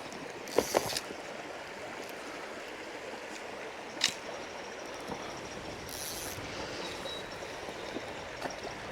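Steady rushing of a fast-flowing river, with a few sharp clicks about half a second in and again about four seconds in.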